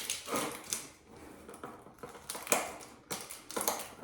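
Irregular crinkling and clicking of plastic packaging being worked open by hand, the sharpest crackle about two and a half seconds in.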